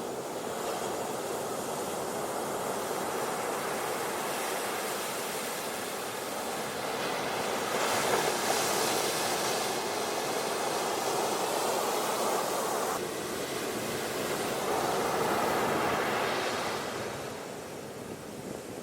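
Ocean waves washing onto a beach in a steady rushing hiss, swelling as waves break about eight seconds in and again around fifteen seconds, then easing off near the end.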